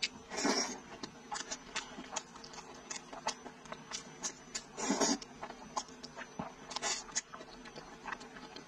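Close-miked wet chewing and lip-smacking of braised pork trotter skin, with many quick sticky clicks. Two longer, louder wet sucking sounds come about half a second in and about five seconds in.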